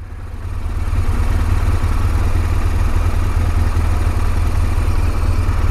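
Motorcycle engine idling at a standstill: a steady low hum that grows a little louder over the first second.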